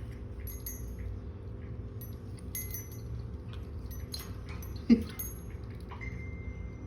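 Pet parrot moving about its cage: small scattered clicks and metallic clinks, one short loud call falling in pitch about five seconds in, and a brief steady high whistle-like tone near the end.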